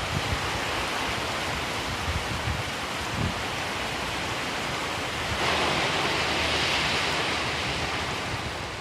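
Strong gusty wind rushing, with low thumps of wind buffeting the microphone in the first few seconds. A stronger, hissier gust comes in about five seconds in and eases off near the end.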